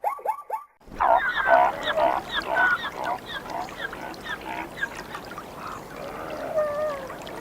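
Zebras barking: a few sharp, quickly repeated yelping calls in the first second, then an abrupt change to several animals calling over one another against a steady background hiss.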